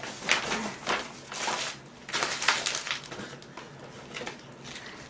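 Rustling and crinkling of gift packaging being handled and opened, in a string of irregular short bursts.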